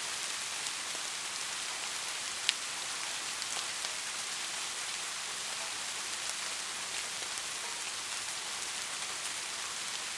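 Steady rain: an even high hiss with scattered individual drop taps, one sharper tap about two and a half seconds in.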